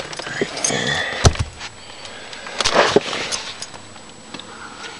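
A sharp thump about a second in, then rustling and small knocks from things being handled inside a car.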